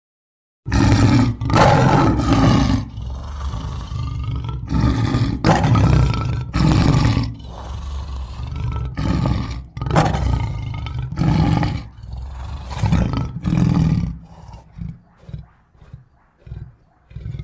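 Giant-monster roar sound effect: a long string of loud, deep roars one after another, beginning just under a second in and breaking into shorter, fainter roars over the last few seconds.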